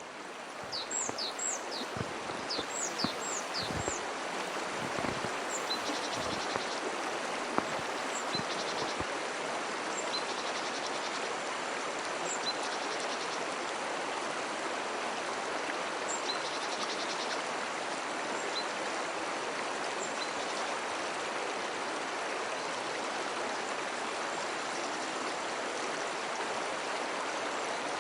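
Steady rush of a flowing stream, with birds chirping over it: a quick run of short falling chirps in the first few seconds, then single chirps every couple of seconds. A few dull low thumps sound in the first several seconds.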